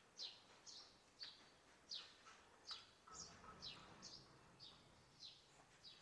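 Small bird chirping faintly, a steady series of short, high, descending chirps, about two a second.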